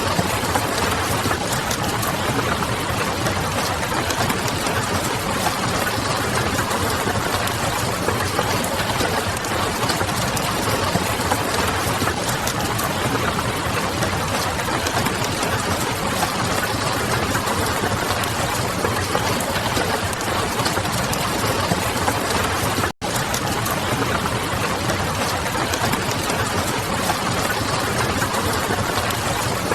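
Steady rain pattering mixed with the fine crackle of a wood fire and a low, distant hum, with a split-second dropout about two-thirds of the way through.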